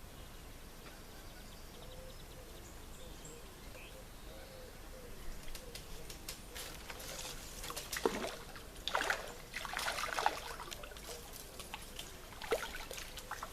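Water dribbling and splashing in short irregular spurts from about five seconds in, over faint birdsong.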